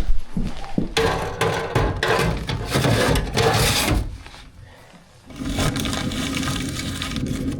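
Rough scraping and rubbing handling noises for a few seconds, then a short lull and a steady low rushing sound.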